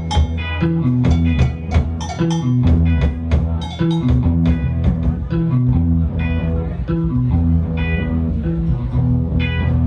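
Live rock band playing an instrumental passage: electric guitars and bass guitars over a drum kit keeping a steady beat of about two hits a second, with a repeating low bass figure.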